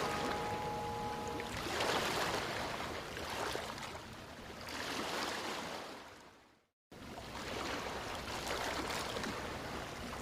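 Running water, a steady rushing hiss that swells and eases every few seconds. It fades out and cuts to silence briefly about six and a half seconds in, then comes back. Held music notes fade away in the first second and a half.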